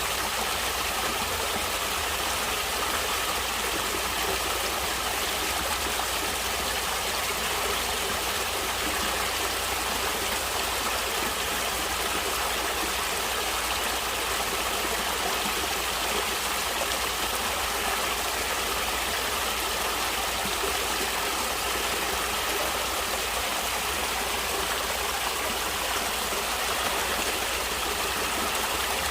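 Stream water flowing and splashing steadily over rocks.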